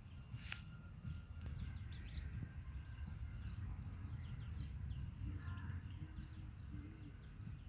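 Small birds chirping and twittering over a steady low rumble, with one sharp rustling burst about half a second in.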